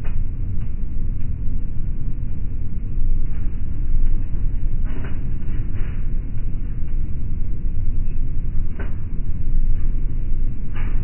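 Steady low cabin roar of a jet airliner at cruise, with a few faint clicks scattered through it.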